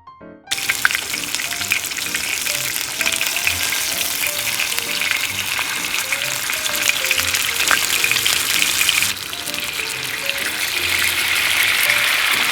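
Meat-wrapped rice balls sizzling and crackling as they fry, starting suddenly about half a second in, with soft music underneath.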